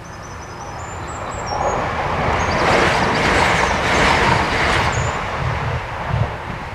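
Transport for Wales diesel multiple unit passing over a level crossing at speed: a rush of wheel and engine noise that builds over the first two seconds, peaks for about three seconds as the train goes by, then fades.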